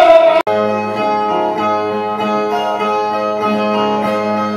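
Brazilian ten-string viola being plucked and strummed in a steady repeating figure over a held low note. This is the instrumental lead-in that accompanies a repente (improvised sung verse).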